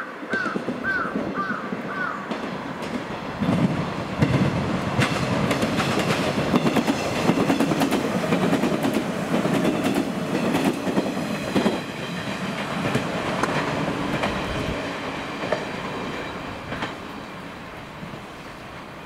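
JNR 113 series four-car electric train passing close by, its wheels clattering over rail joints and points. It is loudest from about three and a half to twelve seconds in, then fades as it moves away.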